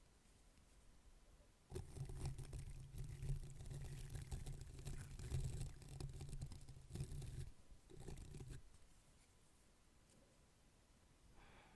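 Soft scratchy brushing sounds close to the microphone: a run of about six seconds starting a couple of seconds in, and a short burst a little later.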